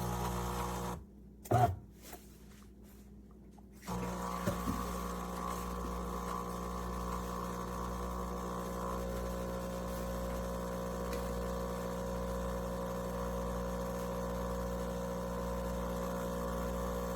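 A steady mechanical hum with several steady tones, which stops about a second in and starts again about four seconds in. A sharp click comes at about a second and a half.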